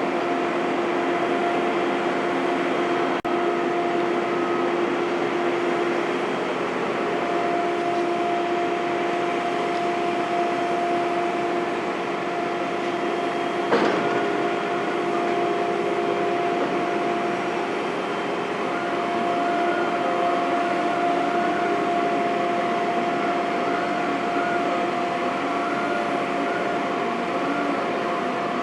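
Heavy construction machinery running steadily, with a constant droning tone. A single sharp clank comes about halfway through.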